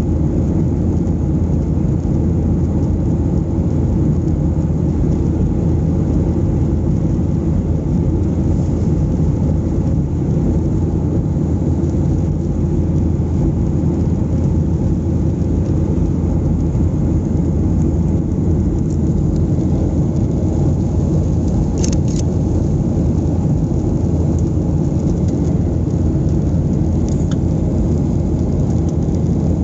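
Steady cabin rumble of a Boeing 737-800 in flight: engine and airflow noise heard from inside the passenger cabin, with a couple of faint clicks later on.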